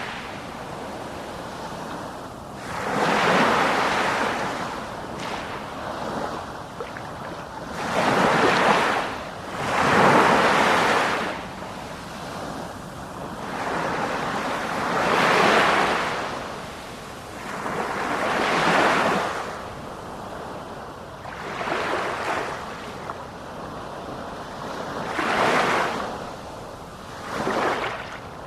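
Ocean waves breaking and washing on a shore, one swell of surf every two to three seconds, with wind on the microphone.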